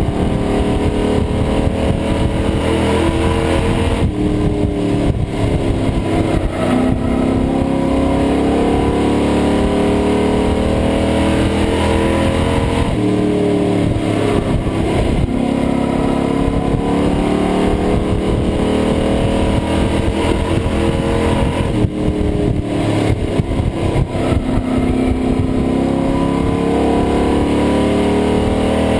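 Pro Truck race engine heard from inside the cab, revving hard with its pitch climbing and then dropping back, over and over about every nine seconds as the truck laps.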